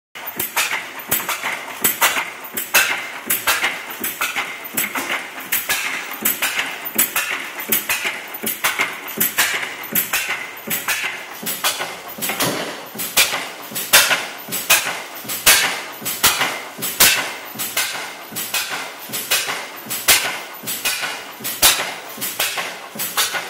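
1914 International Harvester Famous single-cylinder stationary engine running, its valve gear and igniter clacking metallically about one and a half times a second, some strokes louder than others.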